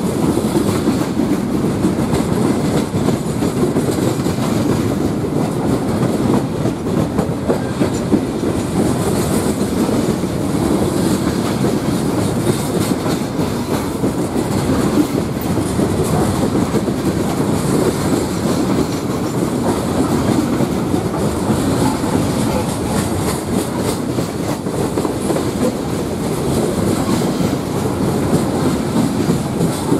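Loaded coke hopper cars of a freight train rolling past steadily, their steel wheels rumbling and clicking over the rails in a continuous, even run.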